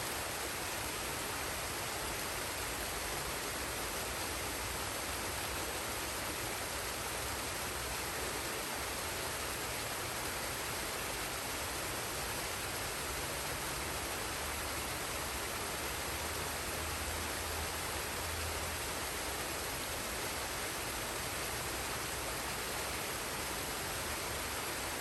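Forest waterfall and stream: water rushing and splashing in a steady, even hiss.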